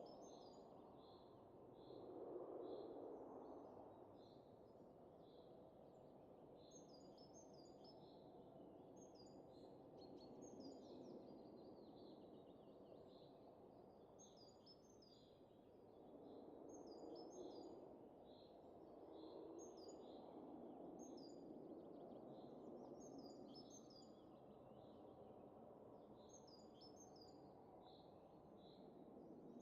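Faint wind rising and falling in slow gusts, with small birds chirping in quick clusters of short high notes throughout.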